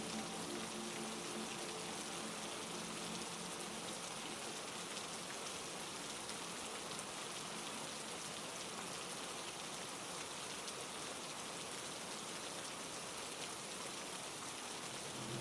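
Heavy rain falling steadily, an even dense hiss with faint scattered drop ticks.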